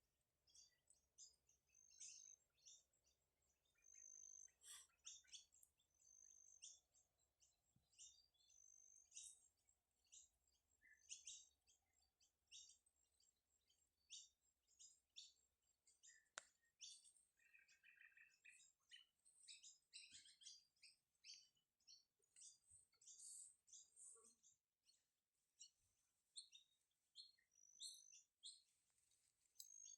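Faint birdsong: many short, high chirps and whistles come one after another throughout, with a brief run of lower, rapidly repeated notes about two-thirds of the way in.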